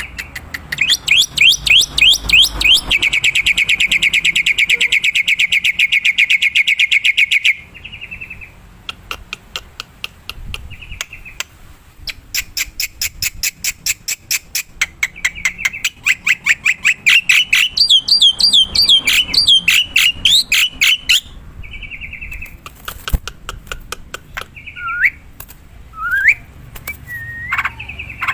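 Black-winged myna (jalak putih) calling: long runs of loud, rapid, evenly repeated sharp chirps lasting several seconds each, with a pause between them. Near the end come a few separate whistles and slurred notes.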